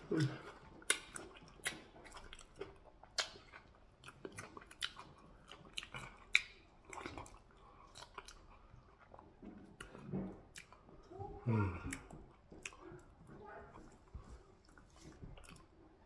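Close-miked chewing of fufu and soup-soaked meat: irregular wet mouth clicks and lip smacks. A couple of short, low throaty sounds come about two thirds of the way in.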